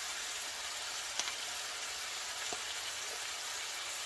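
Chopped vegetables and seasonings frying in hot oil: a steady sizzle, with a couple of small clicks about a second and two and a half seconds in.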